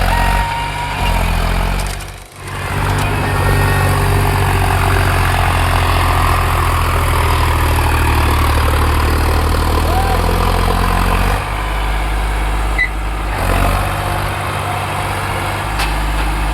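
Diesel tractor engine running steadily, its sound dropping out briefly about two seconds in and its note changing around eleven seconds.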